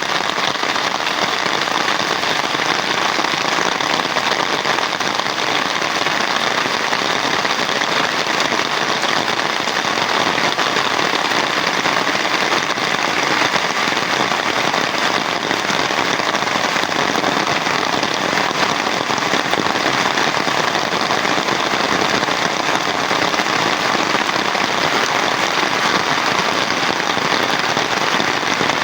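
Heavy rain falling steadily: a dense, even hiss of many drops pattering on surfaces.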